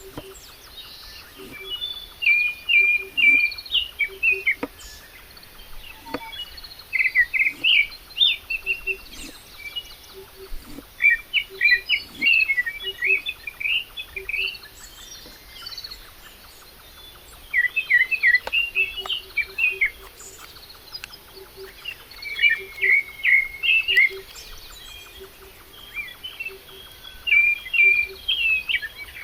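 Songbirds singing: bursts of quick, high twittering chirps, each lasting a second or two and coming every few seconds.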